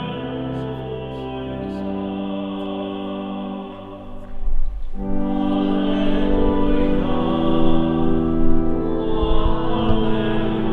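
Sung church music: voices holding notes over sustained accompanying chords. It dips briefly about four seconds in, then comes back louder.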